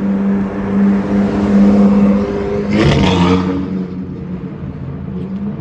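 Car engine running with a steady note, then a loud rushing surge about three seconds in, after which the note settles slightly lower.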